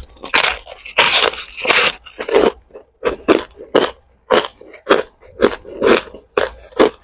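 A person biting and chewing hard ice cubes: repeated crisp crunches, about two a second, with a dense run of crunching about a second in.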